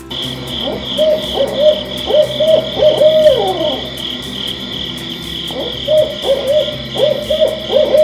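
Owl hooting: two runs of short, low hoots, each hoot rising and falling slightly, with a pause of about two seconds between the runs. A steady high pulsing sound runs underneath.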